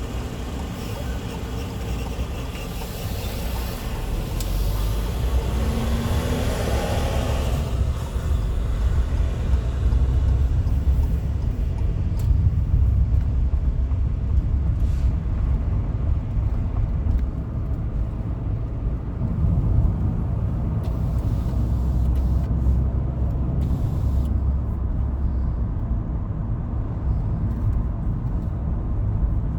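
Road noise of a car driving at freeway speed, heard from inside: a steady low rumble of tyres and engine, with a brighter hiss that swells and then fades over the first eight seconds or so.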